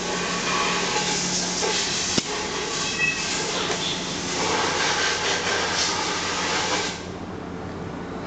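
Toku TPB-40 pneumatic concrete breaker running, a loud hissing rattle of rapid air-driven blows, which stops abruptly about seven seconds in, leaving a quieter steady hum.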